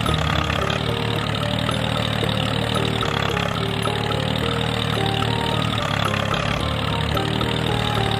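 A small engine running steadily at an even speed, with short steady tones stepping from pitch to pitch over it.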